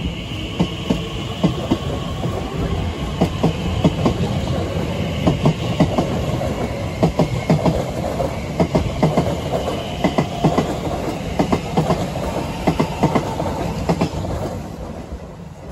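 Class 345 electric multiple unit passing close by: a steady rumble with a rapid, irregular run of wheel clicks over the rail joints, easing off near the end as the train draws away.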